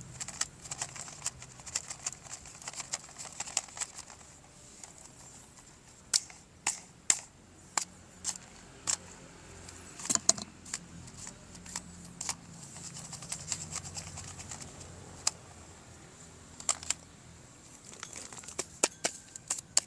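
Plastic toy parts being handled during unboxing: irregular sharp clicks and light rattling, some louder snaps among them.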